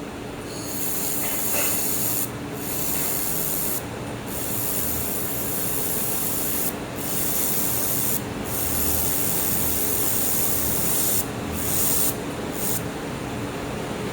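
Air-cooled handheld laser welder at work on aluminum with filler rod: a steady hissing crackle that stops briefly several times between stitches, over the machine's steady hum.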